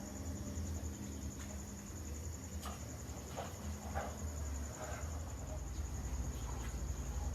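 Crickets chirping in a steady, high, pulsing trill, with a few faint scattered clicks and a low rumble underneath.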